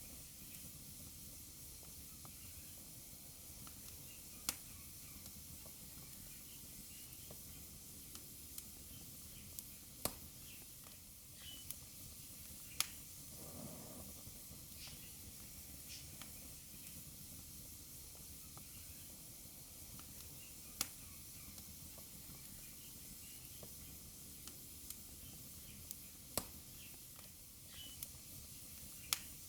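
Wood fire burning in a fireplace: a soft steady hiss with scattered sharp crackles and pops at irregular intervals, about a dozen in all, the loudest several seconds apart.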